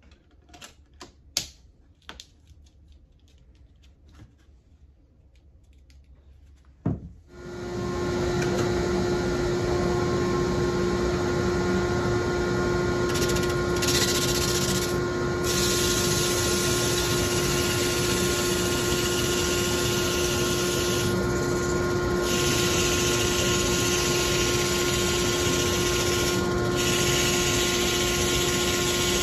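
Light clicks and taps of handling, then a sharp click about seven seconds in as a small electric power tool switches on. It runs steadily with a constant-pitch hum over a rushing noise.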